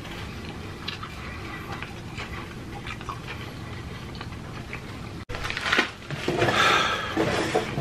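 Close-miked eating sounds: soft chewing of flour-tortilla burritos with faint clicks. After a sudden cut about five seconds in comes a louder stretch of breathy noise.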